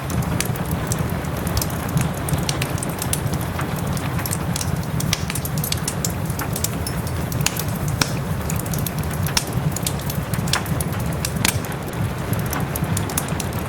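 Wood fire crackling with irregular sharp pops over a steady hiss of soft rain, with a low rumble underneath.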